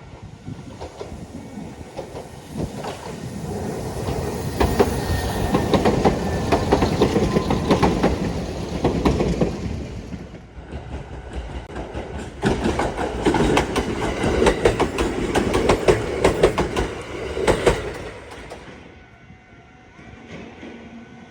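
Nankai Line electric train passing close by, its wheels clacking rapidly over the rail joints. The sound swells twice, with a short dip about ten seconds in, then fades away.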